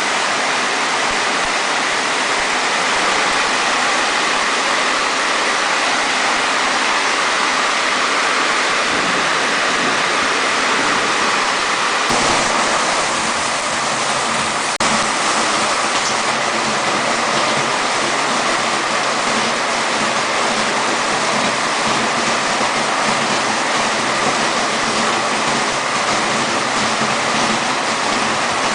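Steady, loud rush of water in a heavy rainstorm, with no break in the noise. The sound changes abruptly twice, about twelve and fifteen seconds in.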